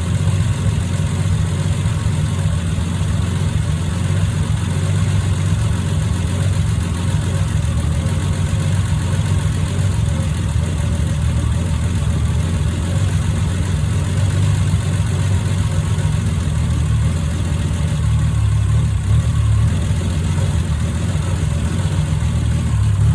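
Freshly rebuilt Triumph TR6 straight-six engine idling steadily on its first run after the rebuild.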